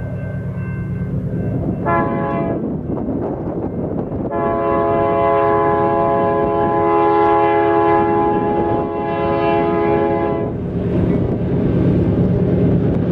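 Freight train's diesel locomotive air horn: a short blast, then a long blast of several seconds, over the steady low rumble of the diesel engines.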